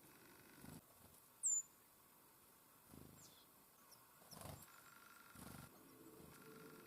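Small songbirds at a winter feeder: one sharp, high, falling call about a second and a half in, then a few fainter short chirps, with soft low rustling noises in between.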